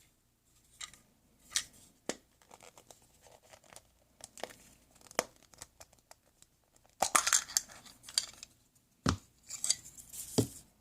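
The foil wrapper of a chocolate surprise egg being torn open and crinkled, with scattered small clicks. Two dull knocks come near the end.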